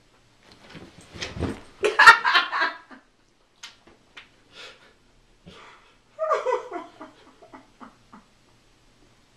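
People laughing at a worked-up dog, with the dog's own noises mixed in and a thump about two seconds in; a second burst of laughter comes near the middle.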